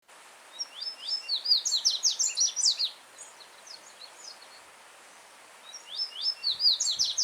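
Yellow-bellied seedeater (coleiro-baiano) singing two phrases of rapid, sharp, down-slurred notes, one about half a second in and another starting near the end, with softer notes between them. A faint steady hiss of a running stream underlies the song.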